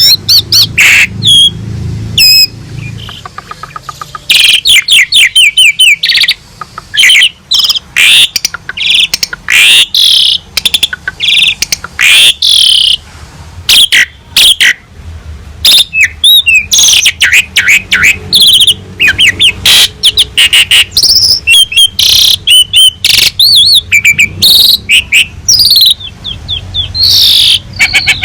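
Jalak suren (Javan pied starling) singing loudly: a rapid, varied run of whistles, chirps and trills in short phrases with brief breaks between them. It grows busier about four seconds in.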